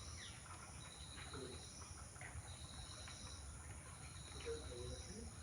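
Insects trilling: a faint, high, steady buzz that comes in repeated bursts of about a second each, with a few faint short chirps mixed in.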